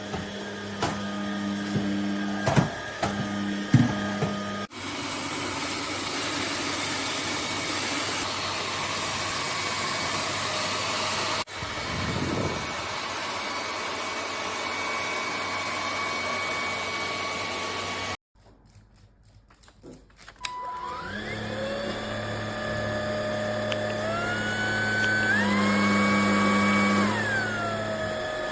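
Cordless stick vacuum running steadily, in several stretches with abrupt cuts and a brief near-silent gap about two-thirds through. After the gap the motor spins up with a rising whine, steps up in pitch twice, then drops back down near the end.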